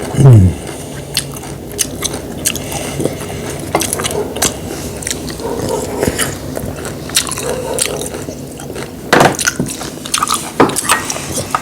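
Close-miked eating sounds: chewing and biting with wet squishes and many short sharp clicks, and a louder cluster of crunches about nine seconds in.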